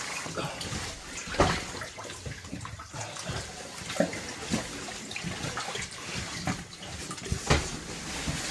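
Water splashing and sloshing as people move through shallow water, with irregular louder splashes and knocks.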